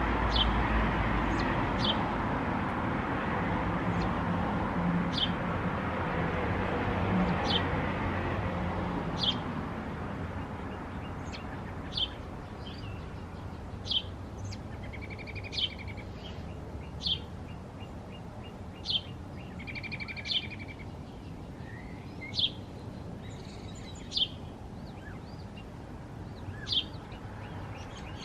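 Small bird chirping repeatedly, one short, sharp, high chirp every second or two, with a couple of longer buzzy calls in the middle. A steady rushing noise underneath fades out about a third of the way in.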